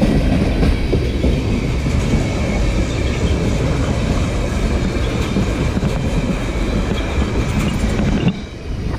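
A train rolling past close by, a loud, steady rumble of wheels on rail that cuts off sharply about eight seconds in.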